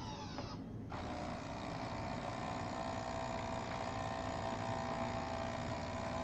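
Nescafé Dolce Gusto capsule coffee machine's pump starting about a second in and then running steadily with a hum, pushing water through a milk capsule.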